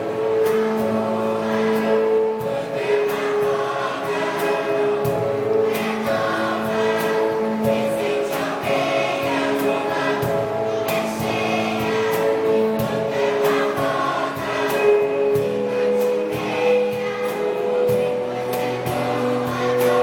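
Choir singing held, sustained notes over a musical accompaniment.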